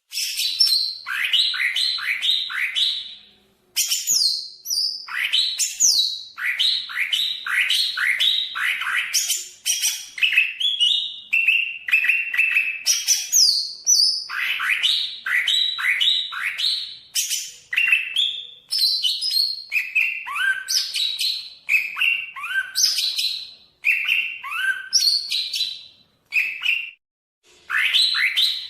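Cucak ijo (green leafbird) singing continuously: fast runs of downward-sweeping notes, several a second, mixed with higher whistled and chattering phrases, with short breaks about 4 seconds in and near the end.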